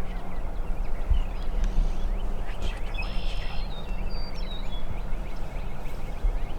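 A wild turkey gobbling about three seconds in, over small birds chirping and a steady low rumble.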